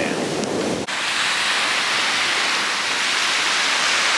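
Wind rumbling on the microphone, then a sudden cut about a second in to a steady, even hiss of surf washing on the beach.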